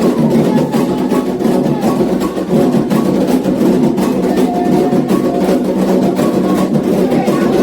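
Candomblé ritual music: atabaque hand drums beaten in a fast, steady rhythm, with other percussion.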